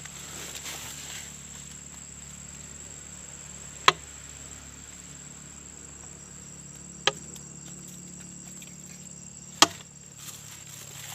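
Insects, crickets or similar, keep up a steady high-pitched drone. Three sharp knocks cut through it, about 4, 7 and 9½ seconds in.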